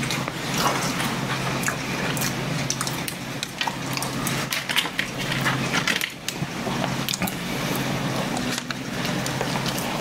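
Close-miked mouth sounds of a person eating soft bread: wet chewing and lip smacks with many small clicks, while pieces are torn from a chestnut bread loaf by hand. A steady low hum runs underneath.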